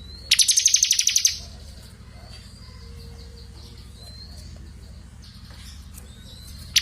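A small songbird's song: a loud, fast trill of rapidly repeated high notes lasting about a second near the start, then a few soft, thin rising whistles. A steady low hum runs underneath. This is a small-bird master recording of the kind used to teach competition songbirds.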